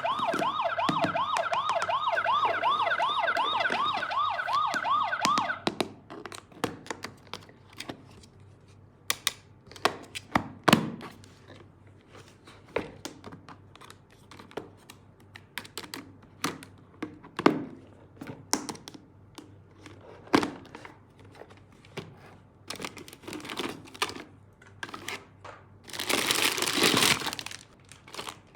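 Electronic toy siren warbling fast, about four times a second, cutting off about six seconds in. Then scattered clicks and knocks of plastic toy parts being handled, and a burst of crinkling packaging near the end.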